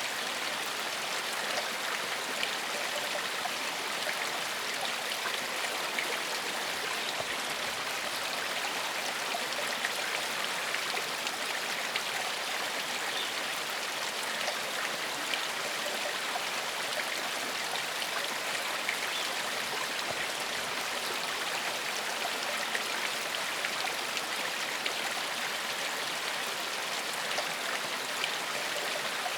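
Gentle forest stream flowing: a steady, even rush of running water with no breaks or changes.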